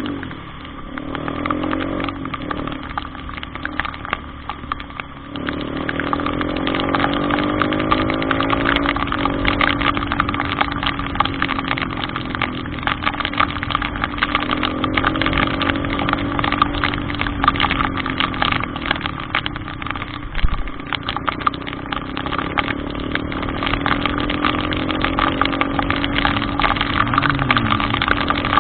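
A vehicle engine running at low speed, its pitch rising and falling slowly as it is eased through flood water; it gets louder about five seconds in. A dense crackle of heavy rain runs underneath.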